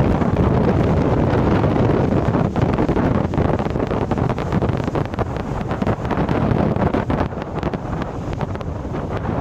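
Strong wind buffeting the microphone: a loud, gusting rush of deep noise that eases a little in the second half.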